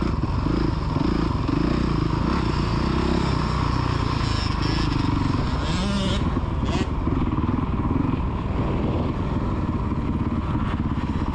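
Motocross dirt bike engine revving on the track, its pitch rising and falling with the throttle, with a brief sharp click about two-thirds of the way through.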